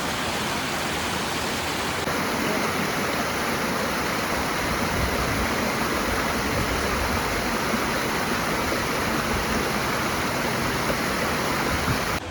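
Steady rushing noise of Multnomah Falls, a tall waterfall, with water pouring and splashing. It drops abruptly to a quieter level near the end.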